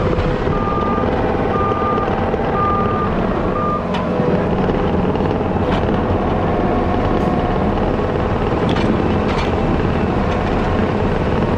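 Diesel engine of a heavy earthmoving machine running steadily at work. A backup alarm beeps about once a second for the first few seconds and then stops, and a few short knocks or clanks follow.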